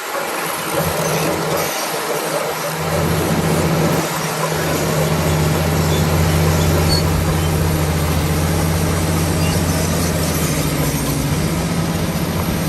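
Komatsu D65PX crawler bulldozer working: its diesel engine runs at a steady, strong note over a broad clattering noise of the machine, growing louder about three seconds in.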